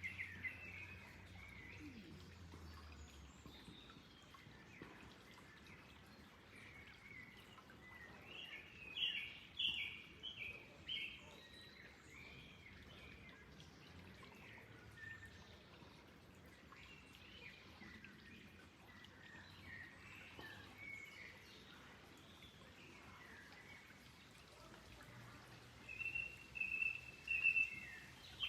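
Wild birds chirping and singing in scattered short phrases, clearest about nine to eleven seconds in and again near the end, over a faint steady background hiss.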